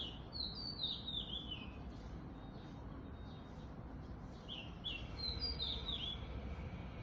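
A songbird singing two short phrases of quick, high, downward-sliding notes, a few seconds apart, over a steady low background noise.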